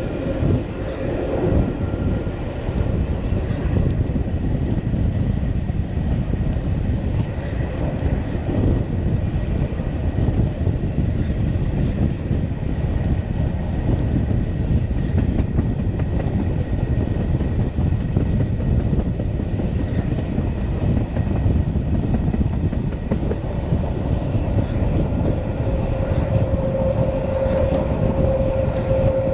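Steady rumble of a Matterhorn Gotthard Bahn metre-gauge train running along the line, heard from aboard. A steady whine comes up in the last few seconds.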